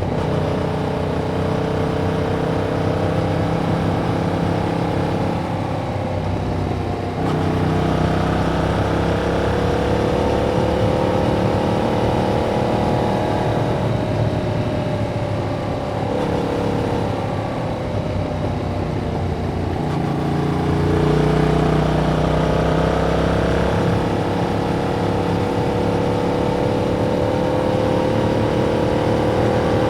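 2021 Yamaha MT-07's parallel-twin engine through its stock exhaust, running under way on the road, its pitch rising and easing with the throttle. It gets louder about a quarter of the way in and again about two-thirds of the way through.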